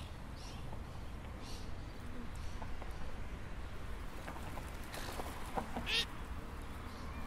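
Birds calling now and then, with one louder call about six seconds in, over a steady low rumble of outdoor background.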